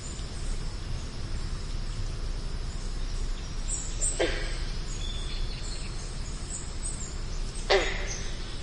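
Outdoor nature ambience: a steady low rumble and hiss, with faint high bird chirps and two short animal calls, one about four seconds in and one near the end.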